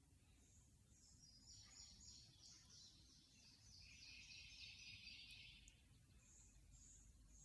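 Near silence, with faint, high-pitched bird chirps repeating in the background and a faint trill lasting a few seconds in the middle.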